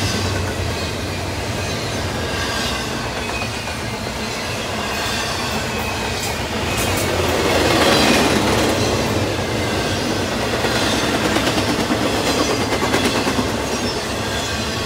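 Double-stack intermodal freight cars rolling past at speed, steel wheels clattering and rumbling on the rails, swelling loudest about halfway through.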